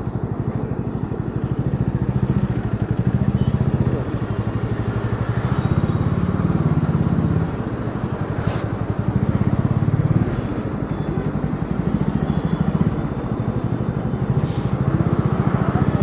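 Bajaj Dominar 400's single-cylinder engine running under way, its note rising and easing off repeatedly as the throttle opens and closes, with wind and road noise.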